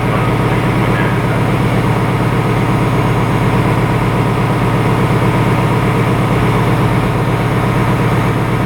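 A railway locomotive running at a standstill or at a steady pace, giving a loud, even low drone with a fine rapid pulse.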